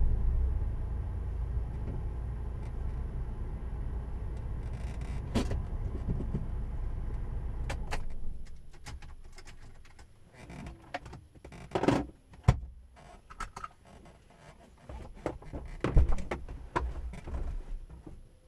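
Alfa Romeo 156's engine idling with a steady low rumble, then switched off about eight seconds in. Scattered clicks and knocks follow inside the cabin.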